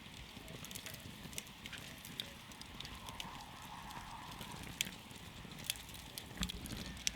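Wood campfire burning, crackling with irregular sharp pops and snaps over a low steady rush, with a few louder snaps in the second half.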